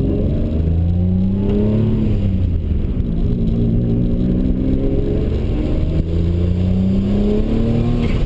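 Turbocharged Ford Probe GT's 2.5-litre KL V6 accelerating hard, heard from inside the cabin. Its pitch climbs, drops back at a gear change about two seconds in, then climbs again in a long pull that breaks off near the end.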